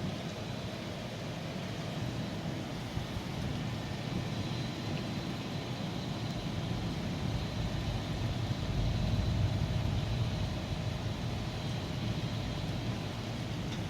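Steady rain with a low rumble underneath that swells about eight seconds in and fades again a few seconds later.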